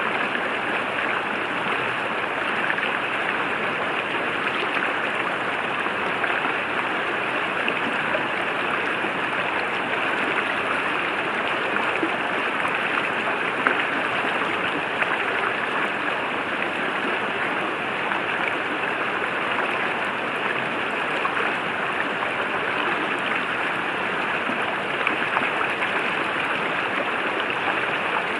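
River water rushing steadily, an even, unbroken flow with faint small splashes in it.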